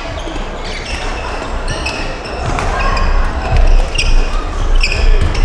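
Badminton rallies in an indoor hall: sharp racket hits on the shuttlecock and short high squeaks of court shoes on the floor, with thuds of footwork that grow louder in the second half.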